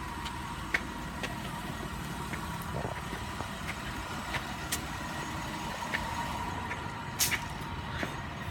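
Car engine idling with a steady low rumble, a faint steady high tone over it, and scattered light clicks and taps; a sharper click about seven seconds in.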